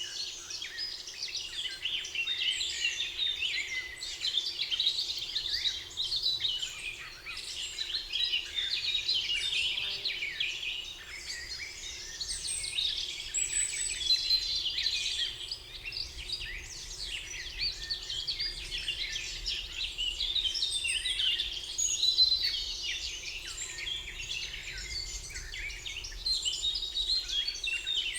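A spring forest dawn-chorus-style mix of many songbirds singing at once: dense, overlapping high chirps, trills and short whistled notes that never let up, over a faint low background rumble.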